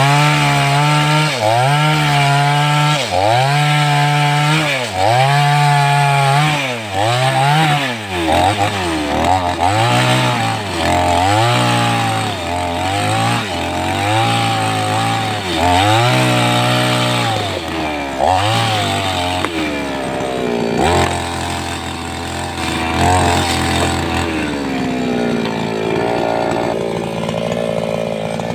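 A two-stroke 588X chainsaw cutting wood: its engine pitch rises and falls again and again, about once a second, then runs more evenly in the last third.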